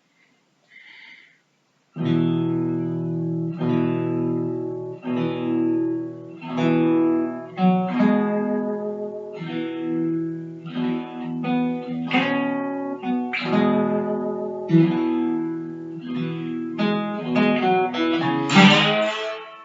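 Acoustic guitar music, starting about two seconds in: plucked chords that ring and fade one after another, with a quick flurry of strumming near the end.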